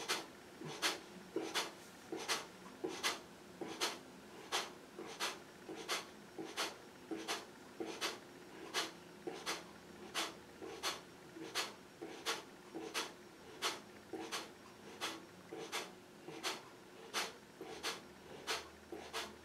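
Kapalbhati breathing: sharp, forceful exhalation strokes through the nose in a steady rhythm, about one and a half a second.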